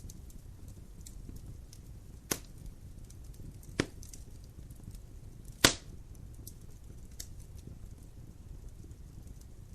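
Wood fire burning in a fireplace: a steady low rumble of flames with faint continuous crackling, and three sharp pops from the burning logs in the first two-thirds, the last one the loudest.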